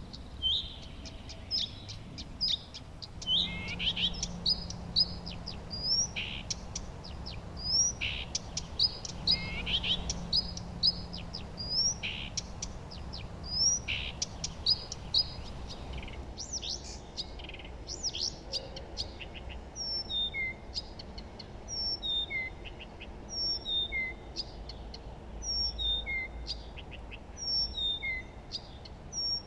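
Songbirds chirping and singing, with many short, quick notes overlapping. About halfway through, the chorus changes to a sparser series of short notes repeated at a steady pace.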